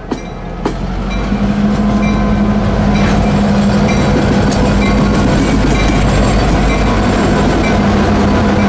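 Norfolk Southern diesel locomotives passing close by: a couple of sharp wheel clicks over the rail joints, then a steady engine rumble with a low drone as the units go by.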